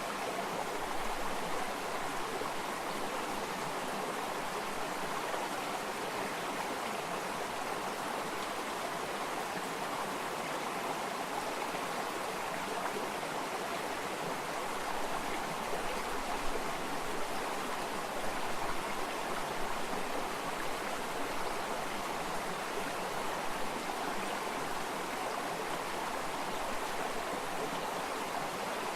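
A stream of running water flowing and babbling steadily.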